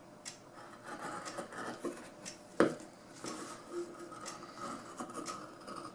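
Scissors cutting vinyl upholstery material: faint rustling of the vinyl with a few sharp snips, the loudest about two and a half seconds in.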